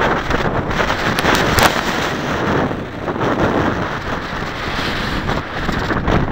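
Strong 20-30 mph wind buffeting the microphone in gusts, with a couple of brief crackles about a second and a half in.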